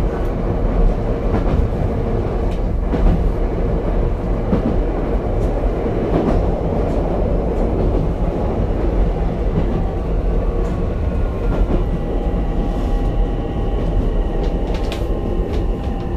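Interior running sound of an Ichibata Electric Railway 7000-series railcar: a steady rolling rumble with rail-joint clicks. From about two-thirds of the way in, the motors add a whine of several tones that slowly fall in pitch as the train slows for the next station.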